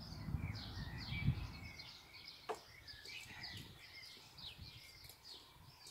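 Birds chirping and singing, many short falling notes, with a low rumble in the first second and a half and a single sharp click about two and a half seconds in.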